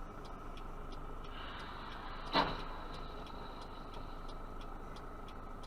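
Steady car driving noise picked up by a dashcam, with faint regular ticking and one sharp knock about two and a half seconds in.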